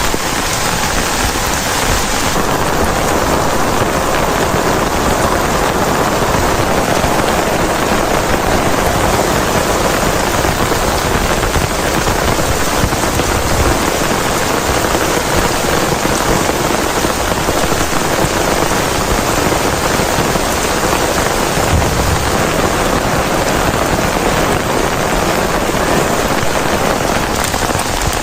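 Heavy rain falling steadily, a loud, even hiss of drops hitting surfaces.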